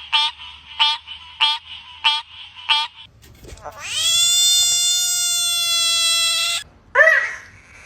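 Frog calling: five short pulsing calls about every 0.6 s, then one long high-pitched scream held for about three seconds, and a short rising call near the end.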